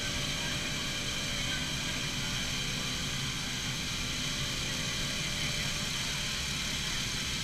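A vehicle engine running steadily with an even hum and road noise, no change in pitch or level.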